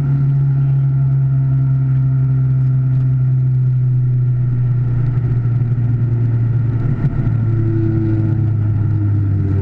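Car engine heard from inside the cabin, a steady drone whose pitch slowly falls.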